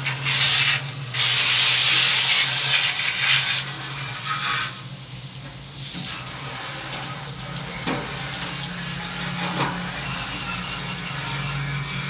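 Running water rinsing air conditioner parts, loudest as a hissing rush in the first few seconds and then in weaker spurts, over a steady low hum.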